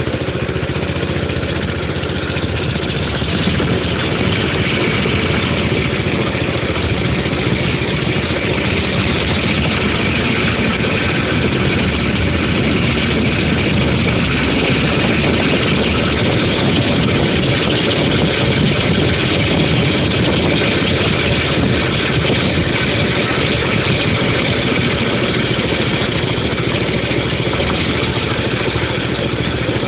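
Dirt bike engine running steadily at an even speed, a little louder from about three seconds in.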